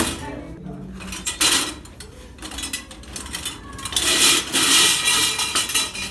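Hard metal objects clattering and clinking together in irregular bursts, loudest about a second and a half in and again in a longer run of clatter from about four seconds in.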